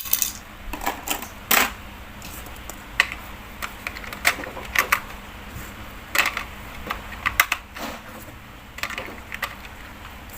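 Irregular plastic clicks and clacks as batteries are fitted into a toy ladder fire truck's battery compartment.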